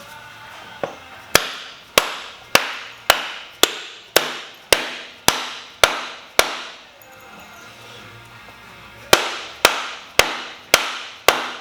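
Hammer striking a seal installer tool to drive the rear main seal of a 6.6 L LMM Duramax V8 into place. The strikes are steady and metallic-ringing, about two a second: ten in a row, a short pause, then five more.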